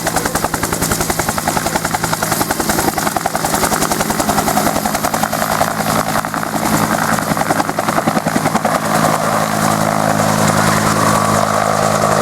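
UH-1 Huey helicopter running: the rapid beating of its two-bladed main rotor over a steady turbine engine tone. In the last few seconds the beating softens and the steady tone grows stronger.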